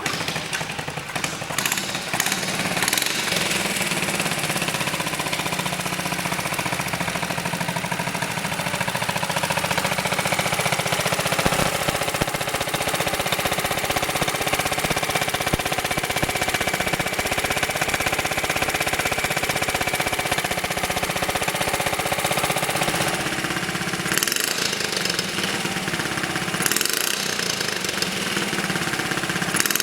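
1968 Honda Z50A minibike's 49cc single-cylinder four-stroke overhead-cam engine starting and then running steadily, with some changes in engine speed in the last few seconds. It runs smoothly after a service.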